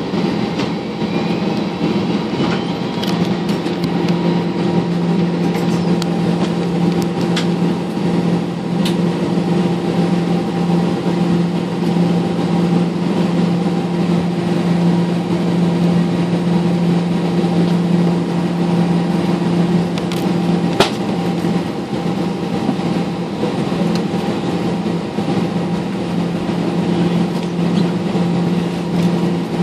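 Airbus A320 jet engines idling at low power, heard inside the passenger cabin as a steady hum with a few fixed pitches over an even rush of noise. A few faint clicks come through it, and a faint whistle rises during the first few seconds.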